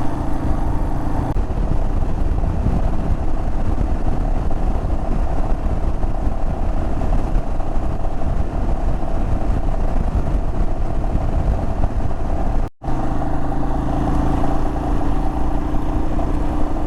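Royal Enfield Himalayan's 411 cc single-cylinder engine running steadily on the move, under heavy wind noise on the microphone. The sound cuts out for a split second about three-quarters of the way through.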